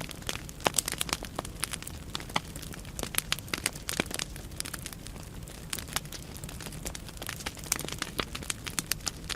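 Wood fire burning in a fireplace: logs crackling with frequent irregular sharp snaps and pops over a low steady rumble of the flames.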